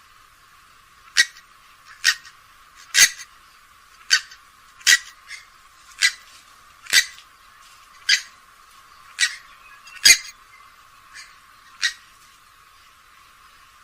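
Grey-headed swamphen giving short, sharp, high calls, about a dozen of them, roughly one a second, with no low end to the sound.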